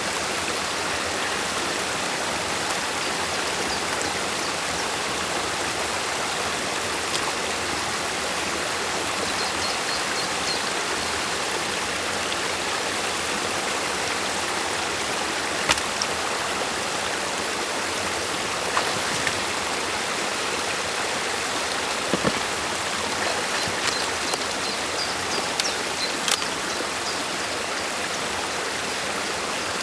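Stream water rushing steadily through a beaver dam, with a few short sharp knocks from about halfway on and faint high chirps now and then.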